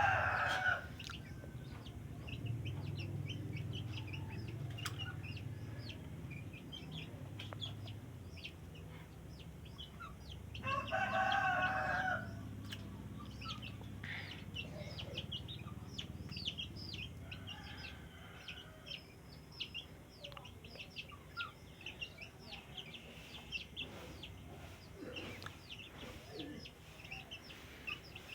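A rooster crows twice, once right at the start and again about eleven seconds in. Between the crows come many short, faint chirps and ticks.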